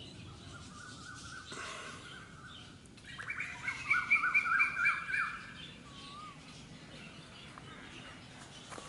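Birdsong: a steady warbling call, then a louder run of quick, repeated rising notes about three seconds in that lasts roughly two seconds.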